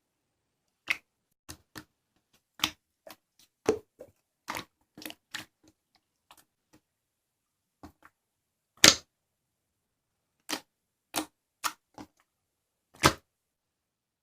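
Slime being squeezed and pressed by hand, letting off irregular sharp clicks and pops as trapped air bursts, with silence between them; the loudest pops come about 9 and 13 seconds in.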